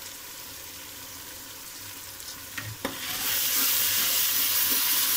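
Onion-tomato masala with fresh ginger-garlic paste sizzling in oil in a metal pot. This is the stage of frying the paste until its raw smell goes. Nearly three seconds in, there are two light knocks and a slotted spoon starts stirring, and the sizzle grows clearly louder.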